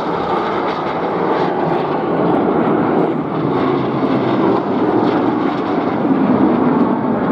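Jet aircraft flying a display, its engine noise a steady rush that grows slightly louder near the end.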